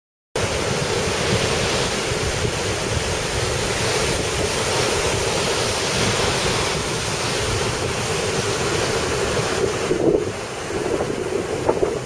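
Strong sea wind buffeting the microphone, mixed with surf breaking on the beach: a loud, steady rush that starts abruptly a moment in and eases briefly near the end.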